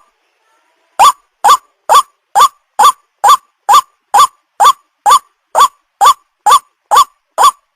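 White-breasted waterhen lure call, a looped recording of a young bird's call: a short note that rises and falls sharply, repeated evenly about twice a second, starting after a second of silence.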